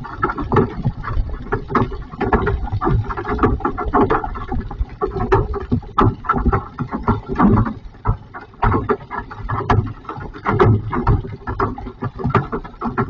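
Hail falling: a dense, irregular clatter of hailstones striking hard surfaces, swelling and easing in strength.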